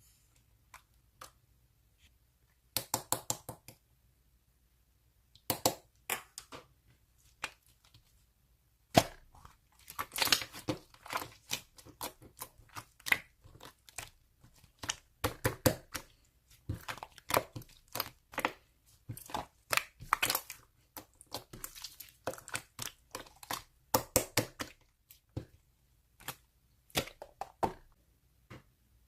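Slime being squished and pressed by hand, giving runs of sharp crackling pops and clicks with short pauses between them.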